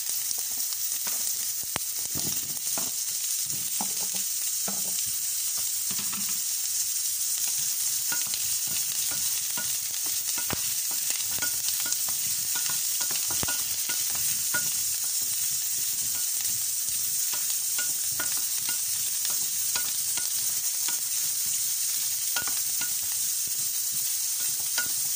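Red onions and garlic sizzling in oil in a nonstick frying pan, a steady hiss broken by irregular knocks and scrapes of a wooden spatula stirring them against the pan.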